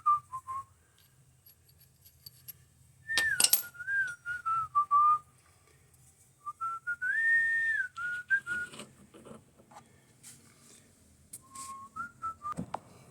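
A person whistling a tune in short phrases with pauses between, with a sharp click or knock about three seconds in and another near the end.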